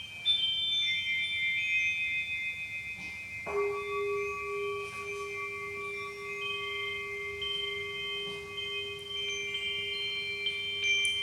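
Chimes ringing: several high notes overlap and sustain. About three and a half seconds in, a lower chime note is struck and rings on steadily.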